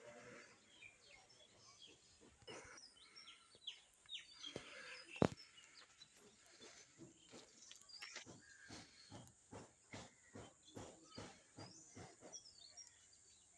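Faint outdoor ambience with scattered small bird chirps. Over it come soft clicks, one sharp knock about five seconds in, then an even run of taps about two a second through the second half.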